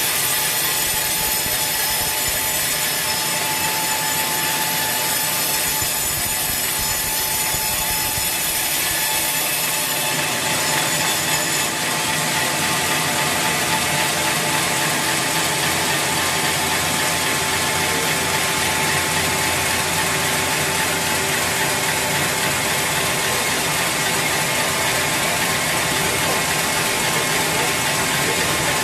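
Sawmill machinery processing a large teak log, running steadily. A high whine in the sound fades out about ten to twelve seconds in.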